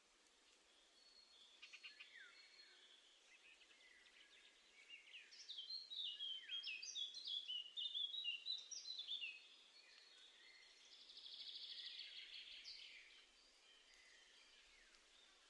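Small garden songbirds calling: scattered high chirps, a dense run of quick, sweeping high notes in the middle, then a fast buzzy trill a little later.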